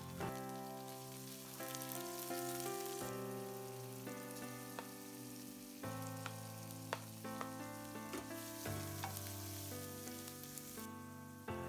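Sliced onions, green bell pepper and shredded carrots sizzling in oil in a frying pan as a wooden spoon stirs them, over background music with held chords that change every second or two.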